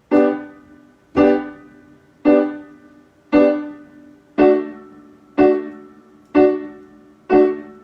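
A D major chord in second inversion (A, D, F-sharp) played on a keyboard eight times, about once a second, each chord dying away before the next.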